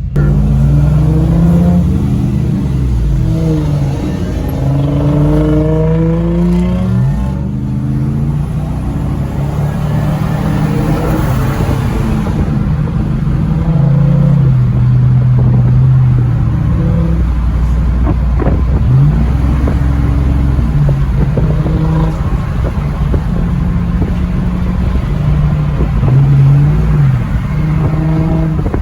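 Car engine pulling away and accelerating, its pitch climbing several times in the first few seconds and dipping and rising again later as it runs through the gears.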